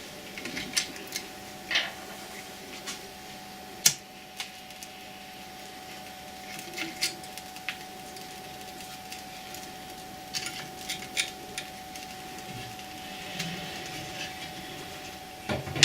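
Scattered light clicks and knocks of firewood being handled in a cast-iron fireplace firebox while the fire is laid, with one sharper knock about four seconds in.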